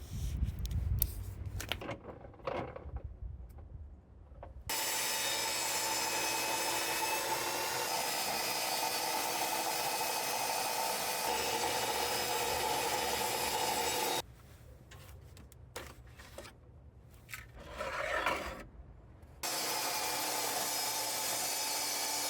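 Ridgid R4518 jobsite table saw, its 15-amp motor running steadily while the blade cuts wood. The cutting comes in two long stretches that start and stop abruptly, with quieter, irregular handling sounds between them.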